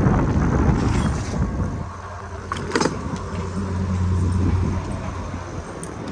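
Street traffic: a motor vehicle passing, loudest in the first two seconds, then a steady low engine hum for about a second and a half, with a couple of sharp clicks between.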